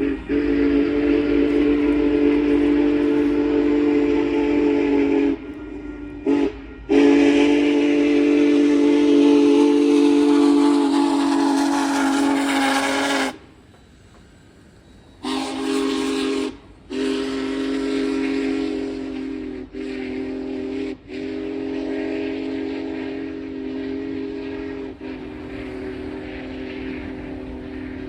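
Multi-chime steam whistle of Union Pacific 4014 Big Boy sounding for a grade crossing: a long blast, a short one, and another long one, then after a short break a string of long blasts with brief gaps, growing quieter near the end.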